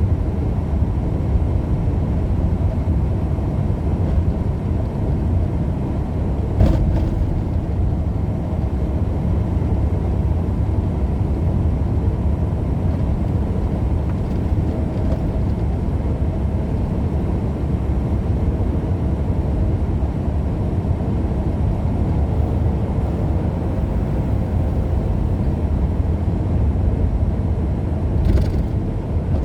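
Steady engine and road rumble inside a moving truck's cab, with a single knock about a quarter of the way in.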